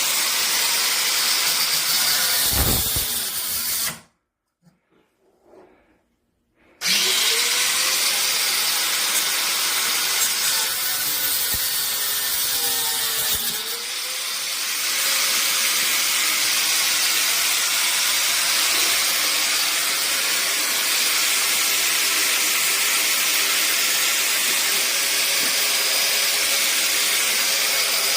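A power tool running steadily with a hissy, even sound, cutting out for about three seconds around four seconds in, then starting up again and running on.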